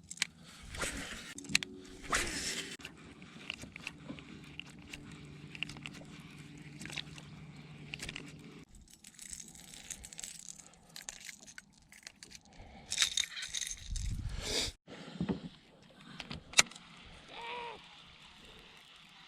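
Electric trolling motor humming steadily, cutting off about nine seconds in, with small clicks and rattles of fishing tackle throughout and a louder burst of rattling near the end.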